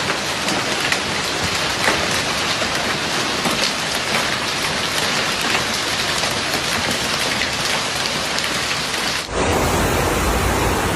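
Heavy rain pelting down, a dense hiss of many small hits. About nine seconds in it cuts abruptly to a different rushing downpour with a heavier low rumble.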